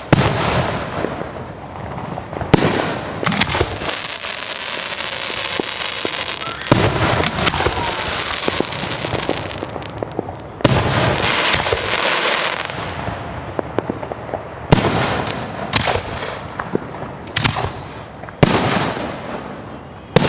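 Aerial fireworks display: shells bursting in sharp bangs about ten times, with long stretches of dense hiss between the bursts.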